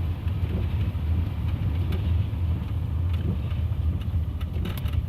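Steady low rumble of a vehicle driving on a snow-covered road, heard from inside the cabin, with a few faint clicks.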